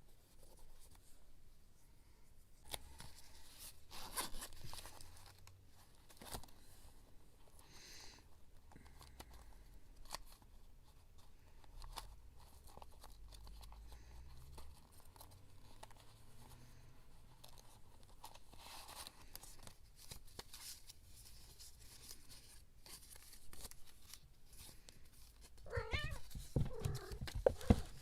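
A cat meows near the end, a short call that glides in pitch, over soft clicks and rustles of paper being handled and torn for scrapbooking.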